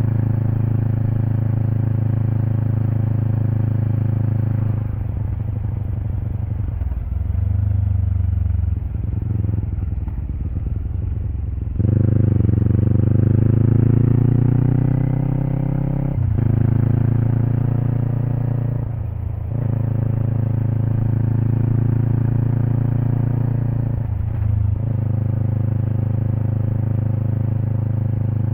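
Kawasaki Eliminator SE (EL400A) parallel-twin engine running through a BEAMS Power Header W aftermarket exhaust while riding. It holds a steady cruise, eases off about five seconds in, then pulls hard from about twelve seconds with the pitch rising, with three brief dips near the middle and end as it shifts up through the gears.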